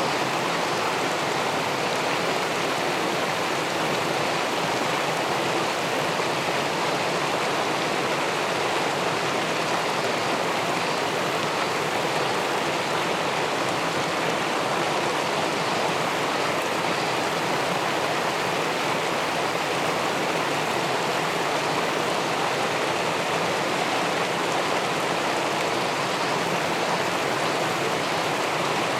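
Steady, unbroken rush of river water pouring over and below a small weir, an even hiss with no clicks or changes.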